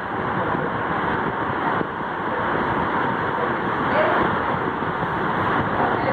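Tron Eco Rio ceiling fan running, a steady rushing of moving air.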